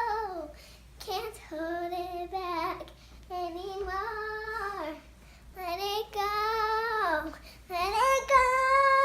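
A young child singing wordlessly or indistinctly in four drawn-out, high-pitched phrases, each held note sliding down at its end.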